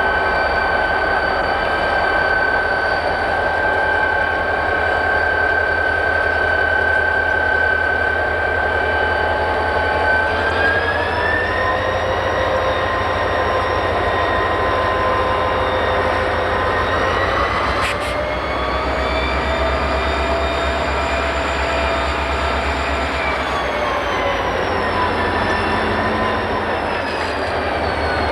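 Buffalo & Pittsburgh train running over the rails with a steady low rumble and a high whine. The whine rises in pitch about ten seconds in, holds, and falls again near the end.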